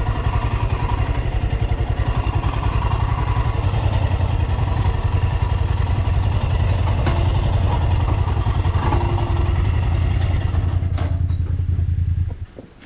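Royal Enfield Himalayan 411's single-cylinder engine running steadily, its exhaust beat thumping at an even pace. The engine sound falls away abruptly near the end.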